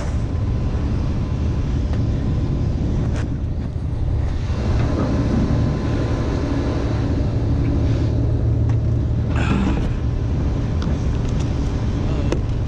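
A vehicle engine idling as a steady low rumble, with a few short knocks and a brief rustling burst about nine seconds in.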